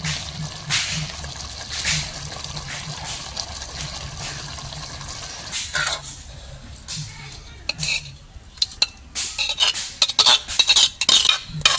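Metal utensils clinking and scraping against cookware, with the clinks coming thick and fast over the last few seconds.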